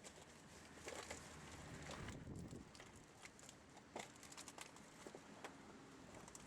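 Faint scattered clicks and light knocks, with a brief low rumble about two seconds in.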